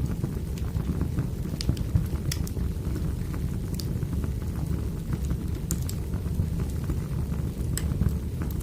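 Firewood burning: a steady low rumble of the fire with sharp, irregular crackles and pops every second or so.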